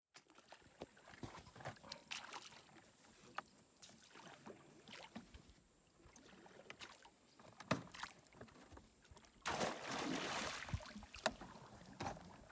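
Sounds of a small boat on the water: scattered knocks and clicks against the hull amid faint water noise, with a louder rush of splashing for about a second and a half near the end.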